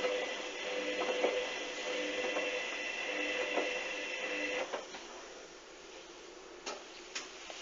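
Hoover washing machine's motor turning the drum during a duvet wash, a steady whine with light knocks about once a second, stopping about two-thirds of the way through. After it stops, a few sharp clicks are heard over a quieter hum.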